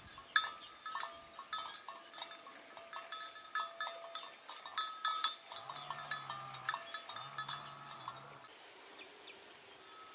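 A metal livestock bell clanking irregularly, many quick ringing strikes as the animal moves, falling still about eight and a half seconds in. Two faint low hums come in the middle.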